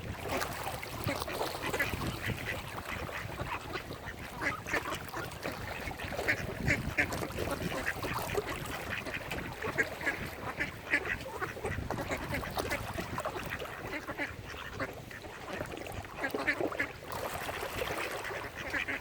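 Mallard ducks quacking, several birds calling over one another in short, irregular bursts.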